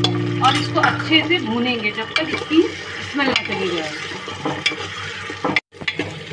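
A metal spoon stirring and scraping onions and meat as they fry in oil in an aluminium pressure cooker: sizzling with irregular scrapes and clinks against the pot. The sound cuts out for a moment near the end.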